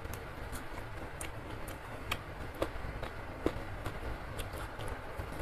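Close-miked eating sounds: wet mouth clicks and crisp snaps as raw green chillies and a fried cabbage fritter are bitten and chewed. There are louder crunches about two seconds in and again around three and a half seconds.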